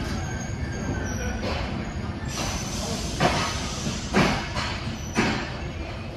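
Czech Railways (ČD) EuroCity passenger coaches rolling past with a steady rumble, their wheels knocking over rail joints about once a second. There is a faint high squeal near the start.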